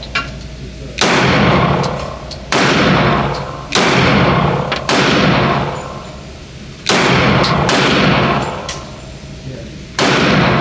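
Handgun firing six single shots at an uneven pace, one to three seconds apart, each shot echoing and dying away over about a second in an indoor range.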